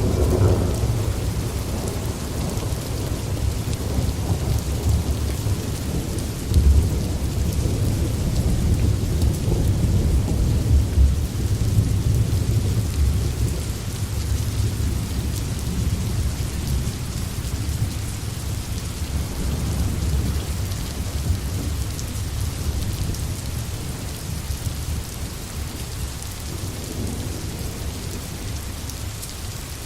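Steady rain falling in a forest, over a continuous low rumble of distant thunder that swells and eases, strongest in the first dozen seconds and a little softer toward the end.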